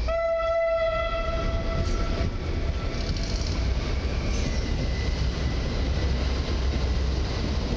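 Electric multiple-unit trains moving through the station, an older commuter set passing and a Stadler FLIRT pulling away, with a steady low rumble of rolling stock. A single high pitched tone starts sharply at the outset and fades away over about two seconds.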